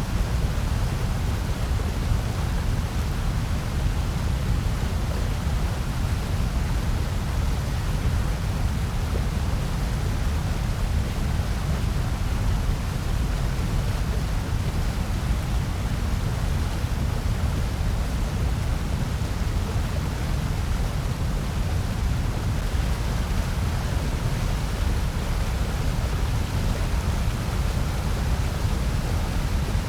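Steady, unchanging electronically generated noise, sold as white noise, a constant hiss with most of its weight in the deep bass.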